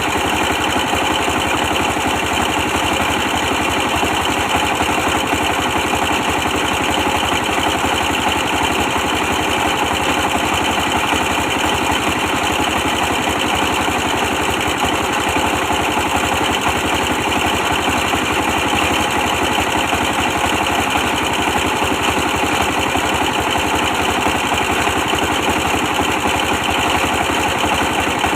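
A 24 hp stationary diesel engine running steadily at an even speed while driving a brick press.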